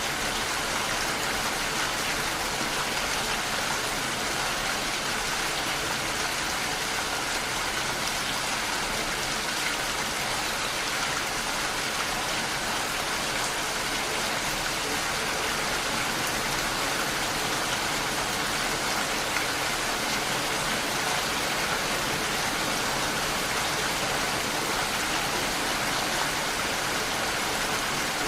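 Steady rainfall, a dense, even hiss of rain falling without a break.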